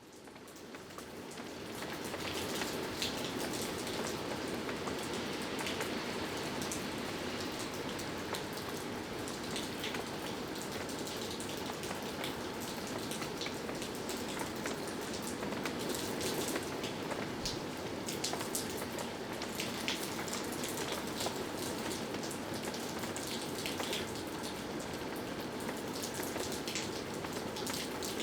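Typhoon rain falling steadily, with many drops ticking on a surface. It fades in over the first two seconds.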